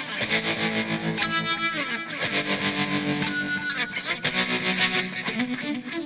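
Electric guitar played through overdrive: distorted chords strummed and left to ring, changing about once a second.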